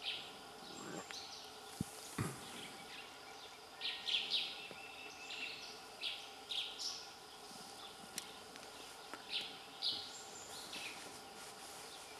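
Forest ambience with a bird calling over and over in short, high chirps, often in pairs, over a faint steady hum.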